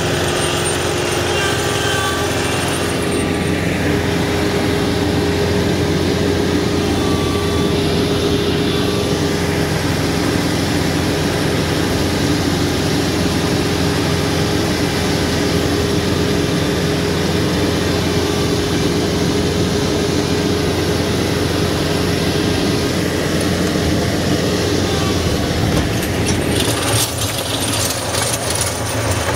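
TYM T574 HST compact tractor's diesel engine running steadily under load while driving a 6-foot Bad Boy PTO tiller, with a few light rattles near the end.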